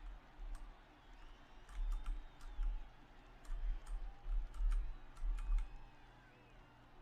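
Typing on a computer keyboard: irregular key clicks in short runs, with dull low thumps among them.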